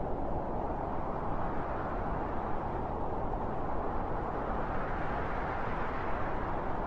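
Strong wind blowing steadily, a dense rushing noise weighted to the low and middle range, swelling slightly about five seconds in.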